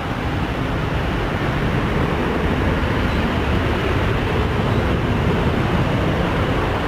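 Airliner engines passing close: a loud, steady rush of noise that swells a little over the first couple of seconds and eases slightly near the end.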